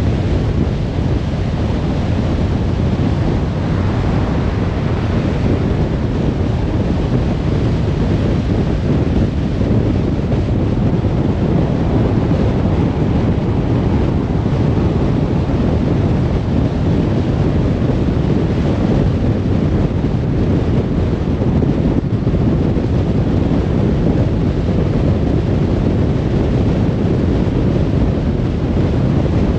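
Car driving at steady speed: continuous road and wind noise, heaviest at the low end and unchanging throughout.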